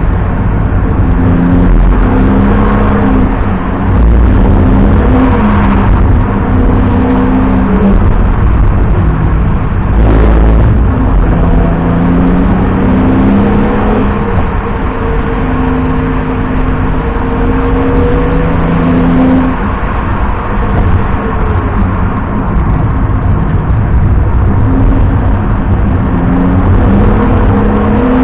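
BMW 330i E90's straight-six engine driven hard, its revs climbing through the gears and falling away again and again over heavy road and wind rumble. There is a brief thump about ten seconds in.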